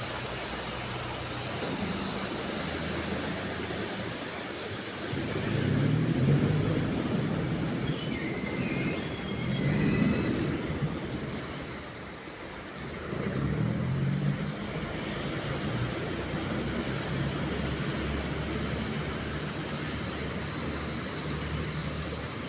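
Passenger canal boat's engine running steadily, swelling louder three times.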